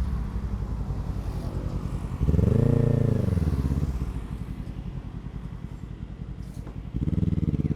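Kawasaki Z650's parallel-twin engine through a Yoshimura Alpha exhaust on the move. About two seconds in the throttle opens sharply and the pitch rises and then falls over a couple of seconds. It then runs quieter and lower off the throttle before opening up again near the end.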